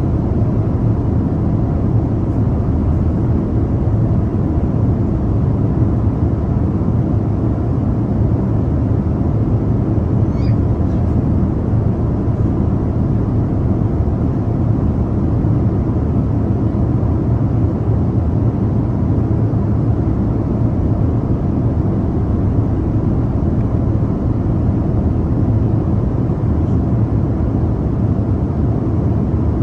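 Steady low roar inside an airliner cabin in flight: engine and airflow noise, unchanging throughout.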